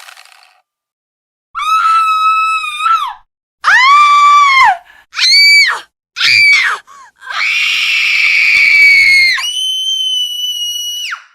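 A person screaming shrilly: a run of short, high-pitched screams, then a long held scream that jumps to an even higher pitch before cutting off.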